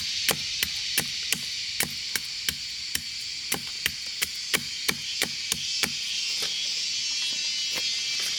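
Repeated blows on wood, like chopping or hammering with a hand tool, about three sharp knocks a second that thin out to a few scattered strikes after about six seconds.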